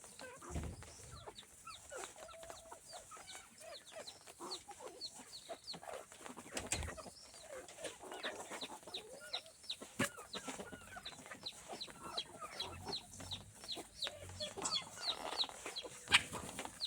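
Chickens clucking, with a steady stream of short, high chirps that fall in pitch, several a second. A couple of low thumps come near the start and about seven seconds in.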